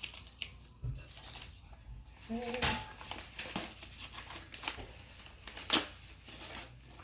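A mailed package being opened by hand: packaging crinkling and tearing, with scattered sharp clicks and snips, the loudest near the end. A short pitched call sounds about two and a half seconds in.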